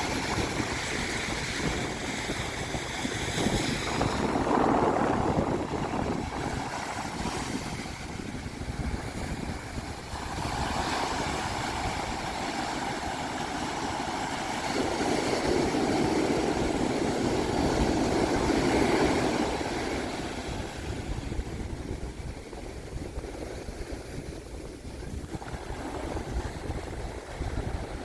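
Ocean surf washing onto a sandy beach, with wind on the microphone. It swells and eases several times, loudest around the middle.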